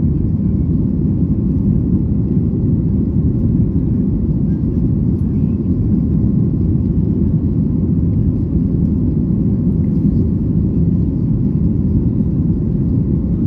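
Steady low rumble of an airliner's jet engines and airflow heard inside the passenger cabin in flight.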